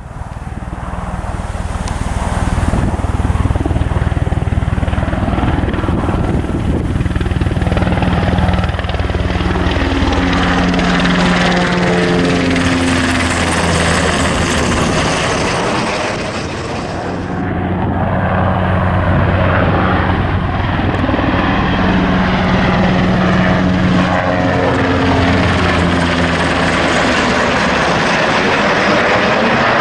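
Sikorsky HH-60G Pave Hawk helicopter flying by, its twin turboshaft engines and rotors running loud and steady. Its pitch drops as it passes about ten seconds in, and the sound swells again later on.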